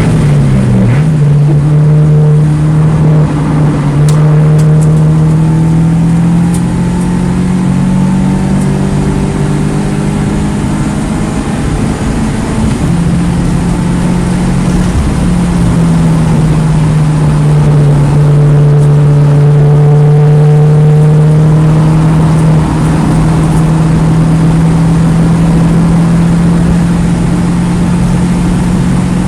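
2009 Mini Cooper S's turbocharged 1.6-litre four-cylinder engine pulling at high revs on track, its pitch holding fairly steady with small rises and falls as speed changes. The revs drop briefly about a second in.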